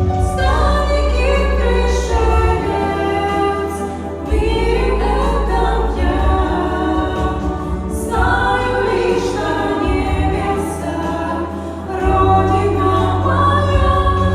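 A trio of women singing a song in close harmony, with held low bass notes underneath that change about every four seconds.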